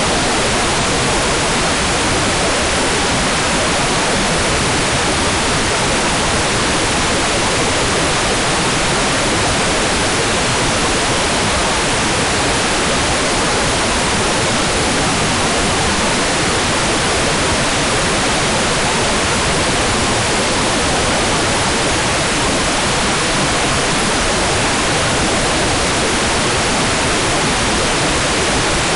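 Hair dryer running steadily: an even, unchanging rush of blown-air noise with no change in pitch or level.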